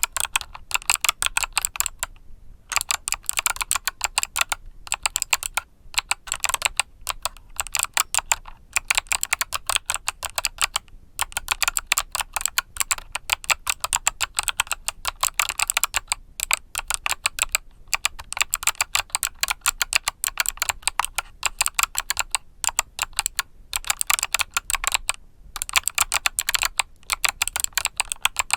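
Mechanical keyboard with Kailh Box summer switches being typed on continuously: fast, crisp clicky keystrokes in runs, with brief pauses every few seconds.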